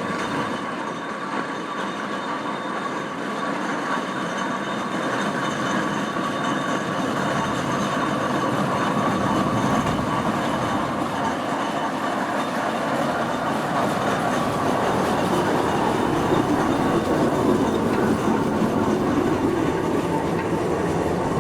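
Steam traction engine running along the road, a steady mechanical clatter and rumble that grows gradually louder through the middle stretch.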